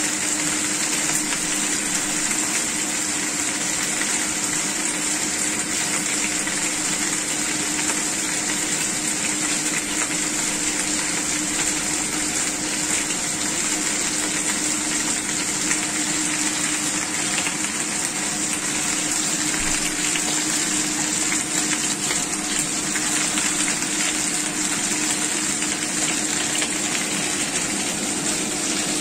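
Chicken wings and potato cubes sizzling steadily as they fry in a pan, with a constant low hum underneath.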